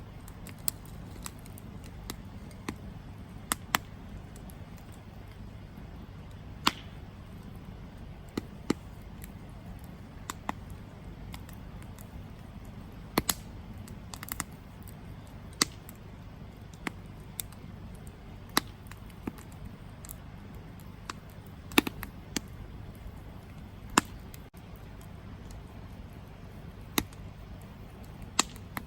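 Campfire crackling: irregular sharp pops and snaps from the burning wood, a few louder cracks among them, over a steady low rumble.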